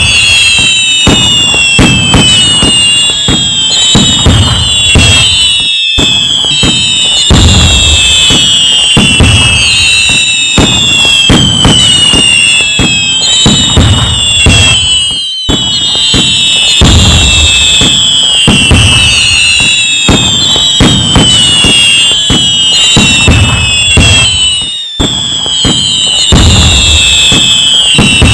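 A fireworks barrage: dense bangs and crackling with many whistles falling in pitch. The same stretch repeats about every nine seconds, with a brief sharp break between repeats.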